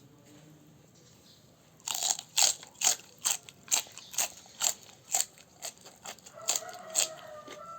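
Loud, crisp crunching as crunchy food is bitten and chewed close to the mouth, starting about two seconds in at roughly two crunches a second, then fading near the end.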